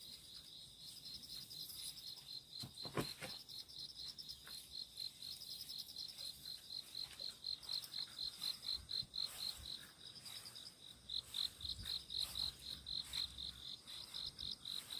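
Crickets chirping in a steady pulsing rhythm, about four chirps a second, two singers at slightly different pitches. A single knock comes about three seconds in.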